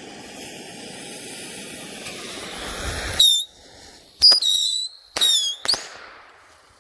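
Bottle rockets launching from a launch pad, starting about three seconds in: several short, loud whistles that slide down in pitch, mixed with sharp pops.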